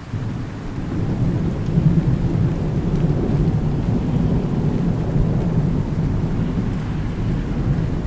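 Rolling thunder: a deep, low rumble that breaks in suddenly at the start and carries on through, over steady rain.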